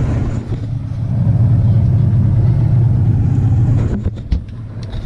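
Boat motor running steadily underway, a low even rumble, with a few short knocks and a dip in level about four seconds in.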